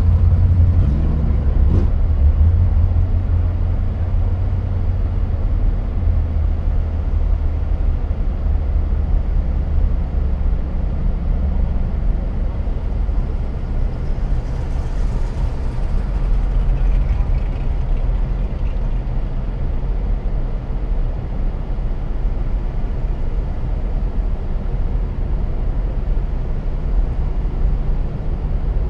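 Car engine idling with a steady deep rumble, heard from inside the cabin as the car rolls slowly forward.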